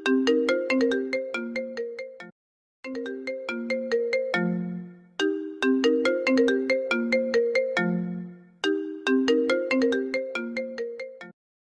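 Apple ringtone playing on a loop: a short melody of quick, bright plucked-sounding notes that repeats about every three seconds, with brief pauses between some repeats.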